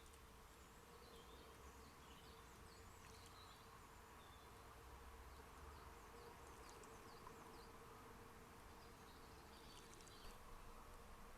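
Faint outdoor ambience: small birds chirping in short, high, quick notes at a distance, over a steady low hum.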